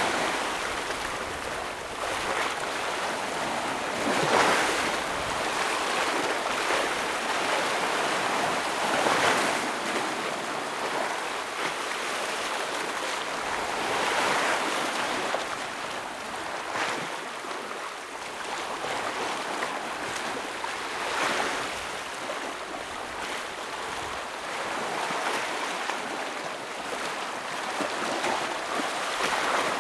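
Ocean waves breaking and washing over shore rocks, a continuous rush of surf that swells every few seconds as each wave crashes.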